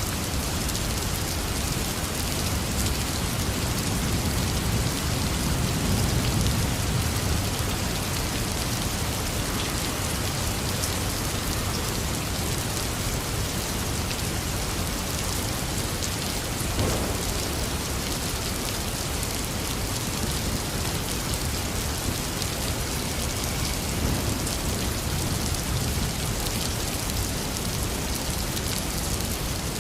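Heavy rain falling steadily, a dense even hiss of drops on hard surfaces. A low rumble of distant thunder swells and fades a few seconds in, with a brief sharp crack a little past halfway and a fainter rumble later.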